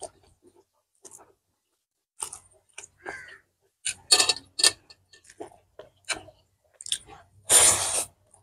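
Close-miked chewing and lip-smacking of a mouthful of rice and pork intestines, in short, irregular wet clicks, with one longer, louder burst near the end.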